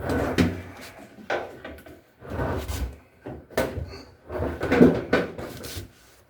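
A run of knocks, clunks and scraping as hard objects are moved and set down, in about five separate bursts.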